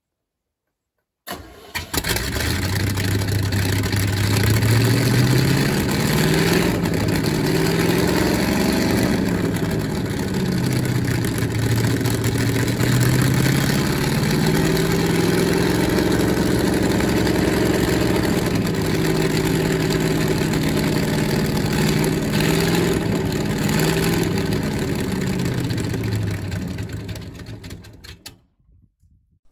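Carbureted V8 hot-rod engine with a temporary dual exhaust of plain new pipe, starting up about a second in. It is revved up and back down twice, then cuts off near the end. The idle is not yet set right.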